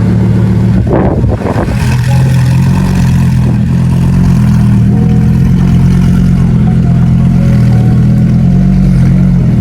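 Car engine running loudly and steadily, with a brief rev about a second in.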